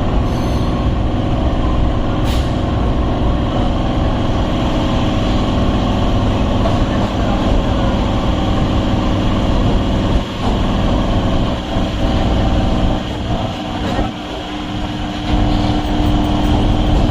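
Electric suburban train running, heard from on board: a steady low rumble with an even motor hum. It eases off briefly twice in the second half.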